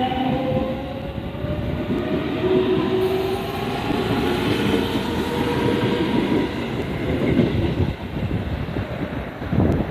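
Electric train passing close by: a steady rumble of wheels on track, with a falling whine in the first second or so.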